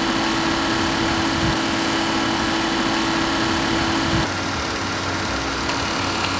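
Steady engine hum, like a vehicle idling close by, with a steady tone that drops out about four seconds in, leaving the hum slightly quieter.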